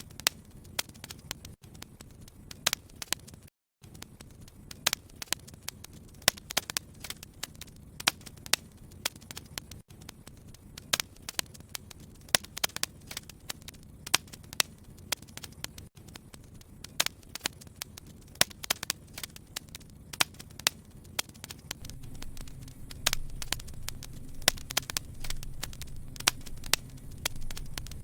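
Wood fire in a fireplace crackling, with irregular sharp pops over a low, steady rumble of burning. The rumble grows louder about two-thirds of the way in, and the sound cuts out for a split second about four seconds in.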